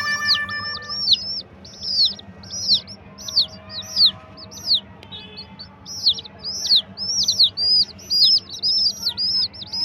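Baby chicken chicks peeping over and over: short, high, falling peeps, several a second, crowding closer together in the second half.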